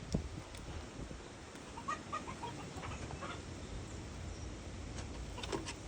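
A peacock giving a quick run of short, soft clucks about two seconds in, then another call a second later. Low wind rumble on the microphone runs underneath, with a few sharp clicks near the end.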